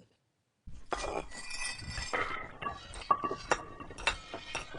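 Bricklaying sound effect: a dense run of hard clinks and knocks, some ringing briefly, starting just under a second in.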